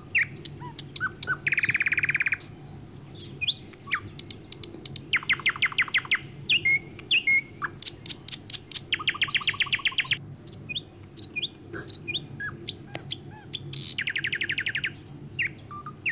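Birds chirping: several rapid trills, each about a second long, with short chirps scattered between them.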